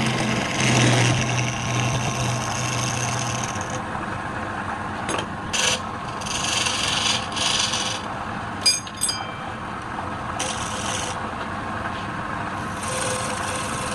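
A motor hums steadily for about four seconds, then stops. After that come intermittent stretches of abrasive rubbing and scraping on wood, like a rasp or file, and about nine seconds in a sharp clink with a brief ring.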